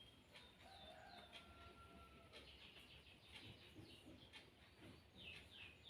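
Near silence with faint bird chirps in the background: short falling chirps in quick runs, clearest near the end.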